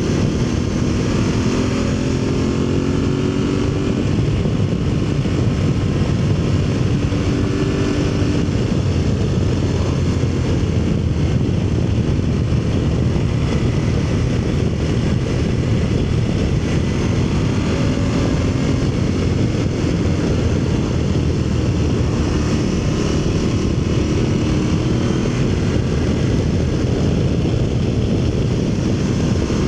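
Aprilia Tuareg motorcycle engine running at road speed, its pitch rising and falling gently with the throttle, over a steady rush of wind noise.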